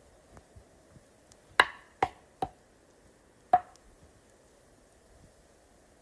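Four sharp chopping knocks, each with a short ring: three in quick succession about half a second apart, then a fourth about a second later.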